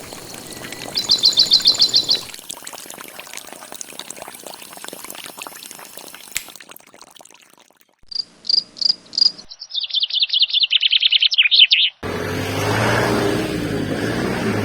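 Bird-like chirping trills, rapid and high-pitched, in short bursts that start and stop abruptly. About twelve seconds in, they give way to a steady low hum.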